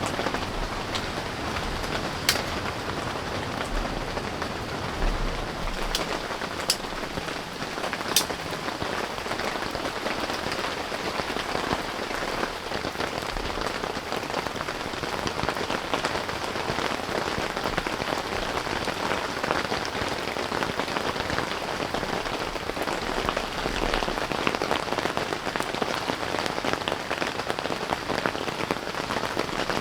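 Steady rain falling, a dense even crackle of drops, with a few sharper single drop hits a couple of seconds in and again around six to eight seconds in.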